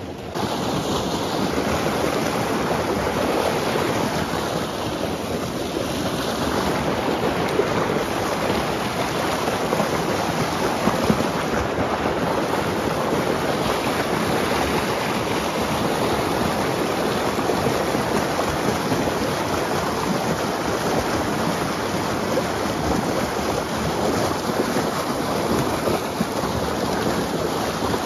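River water rushing steadily, a dense, even wash of flowing current.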